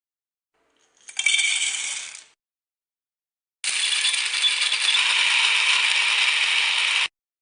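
Electric coffee and grain grinder running in two goes: a short burst about a second in, then a steady run of about three and a half seconds that cuts off suddenly.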